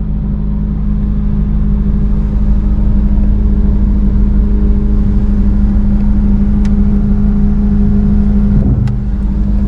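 Honda Civic FN2 Type R's 2.0-litre four-cylinder engine idling steadily, heard from inside the cabin.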